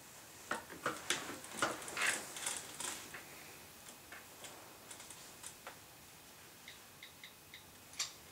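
Irregular clicks and light taps, packed close together for the first three seconds and then sparser, with a few short high blips near the end and one sharper click just before it ends.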